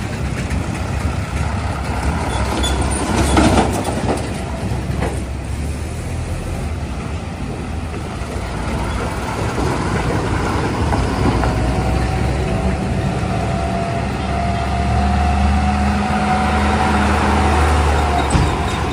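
Heavy diesel engines running steadily, with a faint whine through the second half and a brief louder swell near the start.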